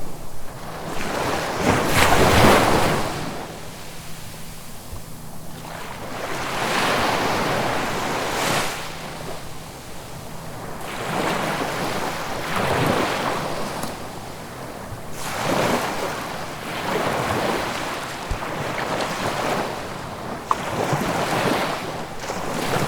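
Ocean surf: waves breaking and washing in, swelling and fading about six times, the loudest wash about two seconds in.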